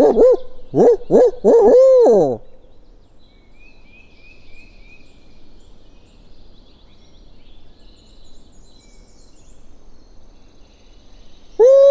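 Barred owl-style hooting, a run of short hoots ending in one long drawn-out hoot in the first two seconds and another long hoot near the end, used as a turkey locator call to shock a gobbler into answering. Small birds chirp faintly in between.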